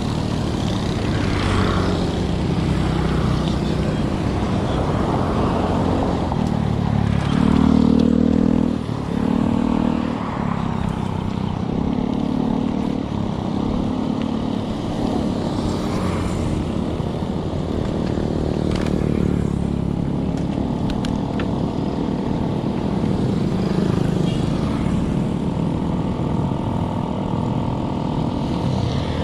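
Motor vehicle engine noise on the road, with a heavy low rumble of wind and road noise throughout. An engine swells louder about seven to ten seconds in, then settles back to a steady hum.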